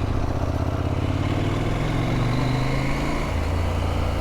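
KTM adventure motorcycle's engine pulling under throttle on a dirt trail, its pitch rising for about three seconds, then dropping as it shifts up a gear.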